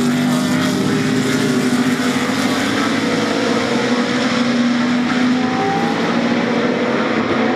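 GT3 race car engines running hard at racing speed, one steady engine note held for several seconds, with a higher engine note rising briefly near the end.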